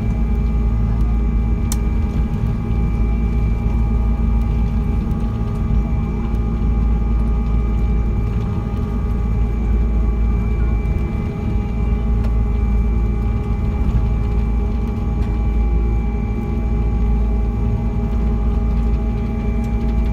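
Boeing 777 in flight on approach: a steady, loud engine and airflow rumble with several steady whining tones. A lower hum swells in at the start, holds steady and winds down near the end, plausibly the flap drive running as the flaps extend for landing.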